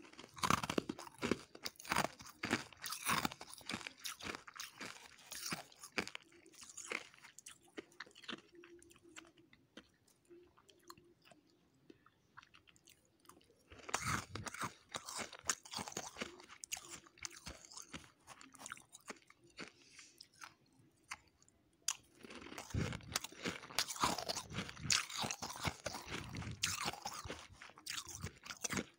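Close-up chewing of dry, powdery freezer frost: dense, crisp crunching in three bouts, with quieter gaps between mouthfuls.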